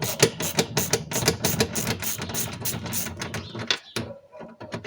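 Hand ratchet clicking rapidly as it undoes the nuts holding the window glass to the regulator inside a car door, thinning to a few scattered clicks near the end.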